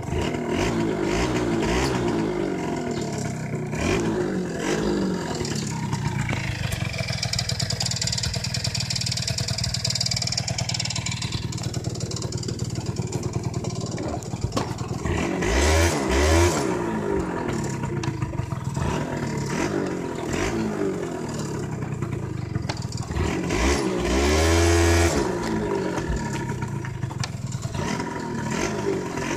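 Small two-stroke single-cylinder scooter engine, a Yamaha Jog 80 unit fitted to a Jog 50 frame, running with its speed rising and falling, and two louder short revs about 16 and 25 seconds in.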